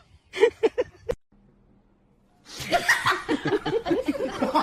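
A person laughing: a few short chuckles in the first second, a brief pause, then continuous rapid laughter from about two and a half seconds in.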